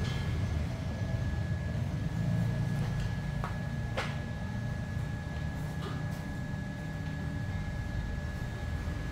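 Small CNC router running while cutting PCB traces: a steady high tone over a low rumble, with a few sharp ticks.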